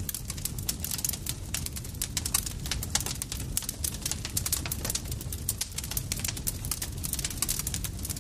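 Campfire crackling: a dense, irregular run of small sharp pops and snaps over a steady low rumble of the burning fire.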